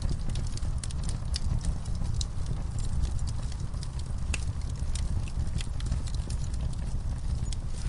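Wood fire in a fire pit, logs and coals crackling and popping in sharp, irregular snaps several times a second, over a steady low rumble.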